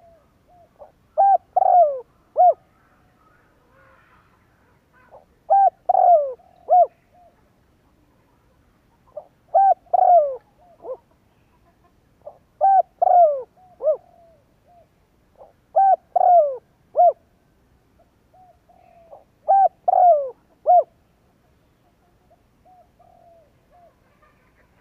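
Spotted dove (cu gáy) cooing: six phrases of three or four notes, about one every four seconds, each with a drawn-out falling note, and softer notes between the phrases. This is the territorial crowing coo that keepers play to provoke and lure wild doves.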